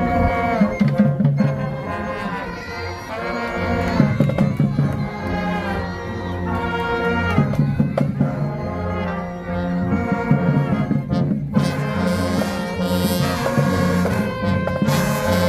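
Marching band brass section and drums playing a dance-routine tune, horns holding and shifting chords over a steady drum beat, with a short break about eleven seconds in before the full band comes back.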